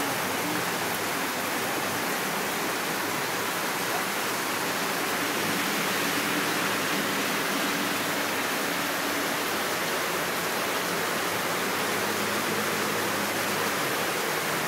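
Heavy rain pouring down steadily, a dense even hiss that swells a little midway.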